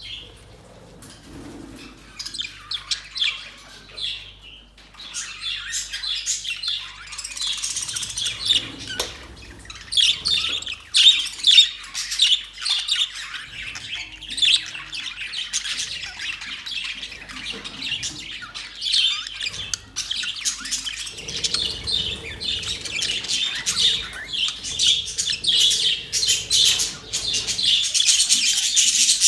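A flock of budgerigars chattering, many short chirps and squawks overlapping without a break, growing fuller a few seconds in.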